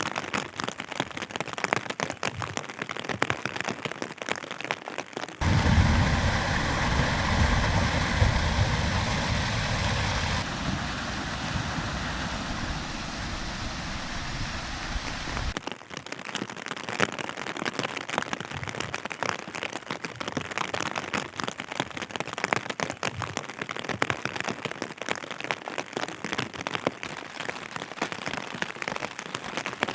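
Steady rain falling, a dense patter of drops. From about five seconds in, a louder, deeper rushing sound with a heavy low rumble cuts in abruptly for about ten seconds, then cuts off just as abruptly and the rain patter returns.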